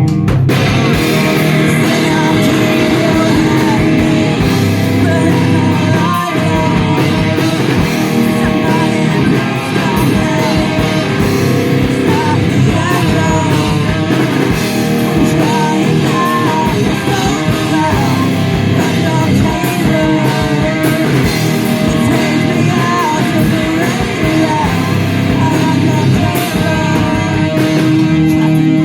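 Live metal band playing a song: electric guitars, bass and drums, with a voice singing over them.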